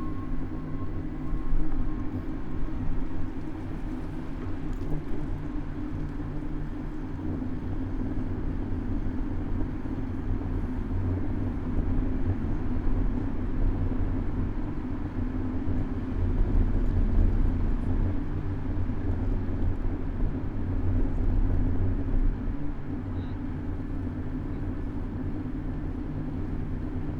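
Steady rumble of city road traffic and road noise, heard from a camera mounted on a moving bicycle, with a few swells as vehicles pass.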